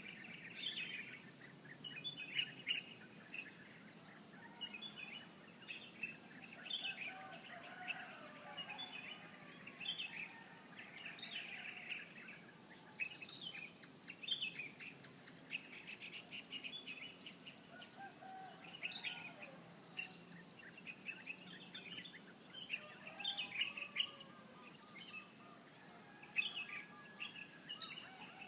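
A chorus of small birds chirping and calling, many quick overlapping chirps with a few lower sliding calls, over a steady high-pitched hiss.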